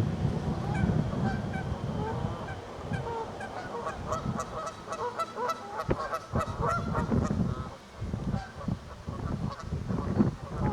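A flock of Canada geese honking, many short calls overlapping, busiest around the middle.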